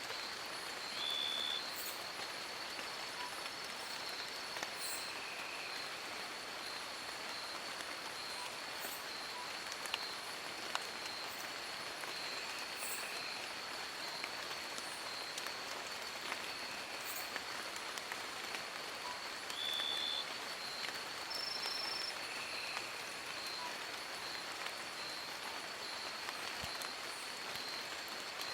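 Steady rain pattering on forest leaves, with scattered louder drops. A thin, high, steady tone runs underneath throughout, and brief high whistled notes sound a few times.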